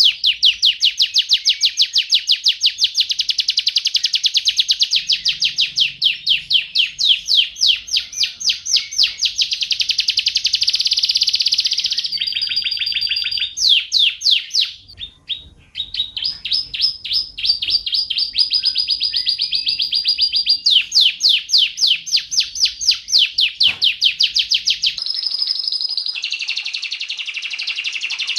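Domestic canary singing a long, unbroken song of rapid trills, fast runs of repeated high notes that change in speed and pitch from phrase to phrase, with a brief pause about fifteen seconds in and a smoother rolling passage near the end.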